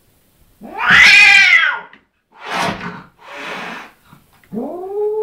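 A cat yowling and hissing at its own reflection in a mirror, an aggressive stand-off with what it takes for a rival cat. One loud yowl rises and falls, then come two short hisses, and a long, lower yowl begins near the end.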